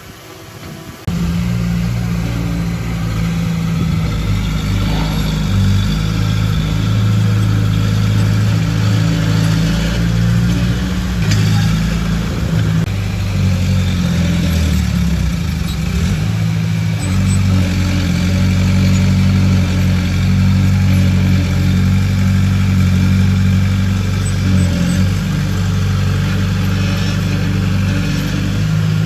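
Heavy machine's diesel engine running steadily, with small changes in engine speed. It comes in abruptly about a second in.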